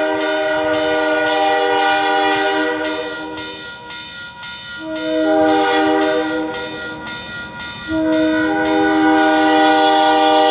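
Locomotive air horn sounding a chord of several steady notes in long blasts: one blast breaks off about four seconds in, a second blast follows, and a third comes in louder about eight seconds in. The blasts come from an RS18U diesel locomotive.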